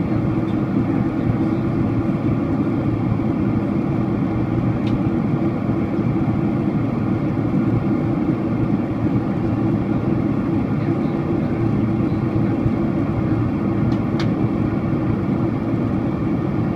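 Steady low drone of a Boeing 767-400ER's engines and airflow heard from inside the passenger cabin in flight, with two faint clicks.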